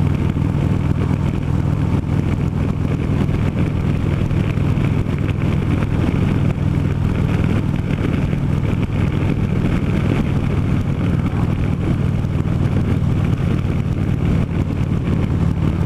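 Harley-Davidson V-twin engine running at a steady cruising speed, its low drone holding an even pitch.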